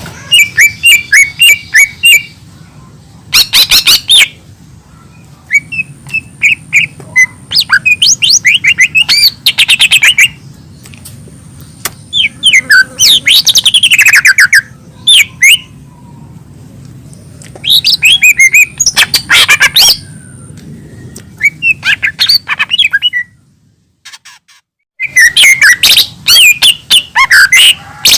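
A cucak ijo (green leafbird) singing loud bursts of rapid, varied chirping and whistled notes. The phrases come one after another with short pauses between them.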